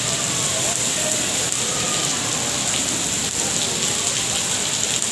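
Steady rain falling, an even, unbroken wash of sound.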